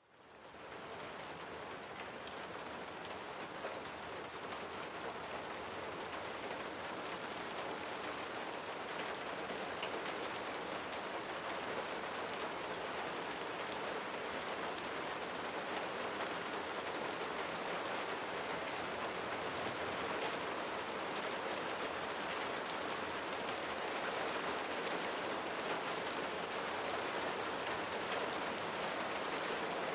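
Steady rain falling, an even hiss with faint scattered drop ticks, fading in from silence over about the first second.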